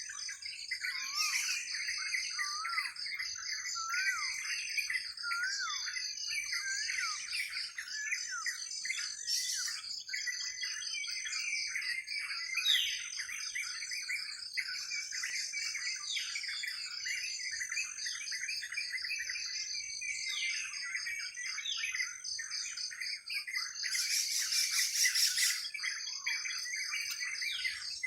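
Many wild birds chirping and calling over one another, over a steady, high, evenly pulsing insect trill. About 24 seconds in a louder harsh sound lasts roughly two seconds.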